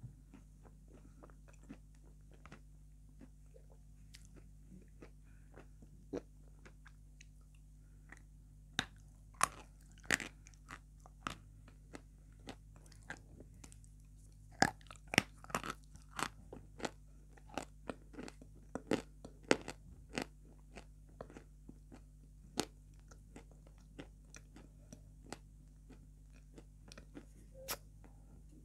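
Close-miked biting and chewing of hard white chalk-like chunks, with sharp crunches. A few soft clicks at first, then a dense run of loud crunches through the middle, thinning out toward the end.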